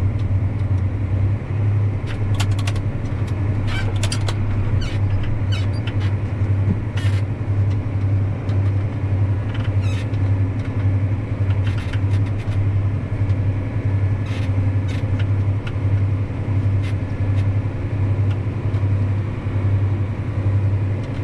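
Tractor engine running steadily under load, heard from inside the cab, while the grain cart's auger unloads corn into a truck trailer. It makes a strong low hum that pulses evenly, with scattered light clicks and rattles above it.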